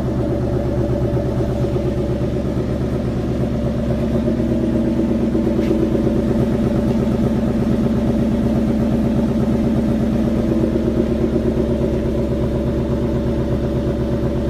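2013 Ford Mustang GT's 5.0-litre V8 idling steadily shortly after a cold start, with an even pulsing exhaust note that swells slightly in the middle.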